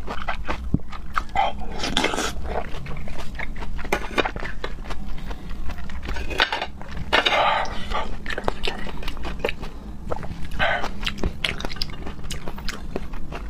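Close-miked eating of raw seafood: wet chewing, lip-smacking and slurping, with many small clicks and a few longer slurping noises.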